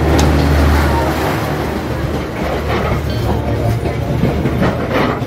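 Passenger train passing very close by at low speed, a steady heavy low rumble of wheels on rail with a few sharp knocks.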